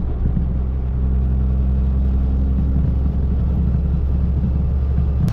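Diesel truck engine running steadily, a low, even rumble.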